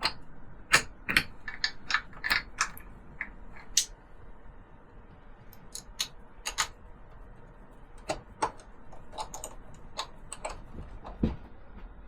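Irregular sharp clicks and light knocks of a metal diverter plate and its fittings being handled and test-fitted on unistrut channel: a cluster of clicks in the first few seconds, a lull, then another run, with one duller, lower knock near the end.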